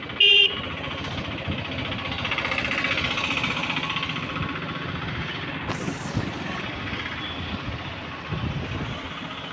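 Road traffic noise: a short, loud horn toot just after the start, then the steady noise of passing vehicles.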